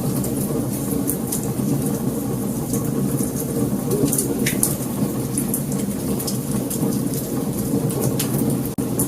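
Wood fire burning: many sharp, irregular crackles and pops over a steady low rumble of flames, with a very brief break in the sound near the end.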